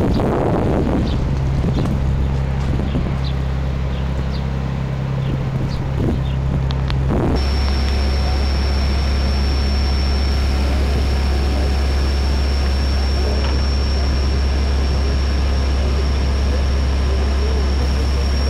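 Steady low engine hum of a passenger boat under way. About seven seconds in the sound changes abruptly and a thin, steady high whine joins the hum.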